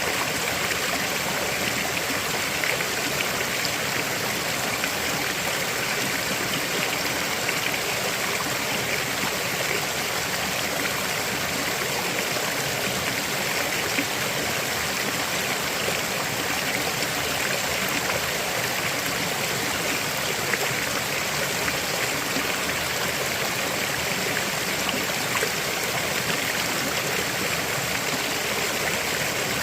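River water flowing over stones, a steady rushing and burbling.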